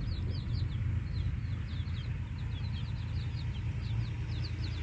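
Birds chirping: quick, high, falling notes, several a second, over a steady low rumble.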